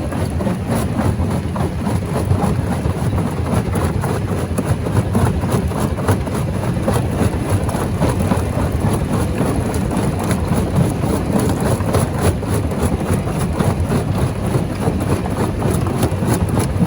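Rock crusher machine running, a heavy steady mechanical rumble with a continuous scatter of small irregular knocks and clatter as stone is broken.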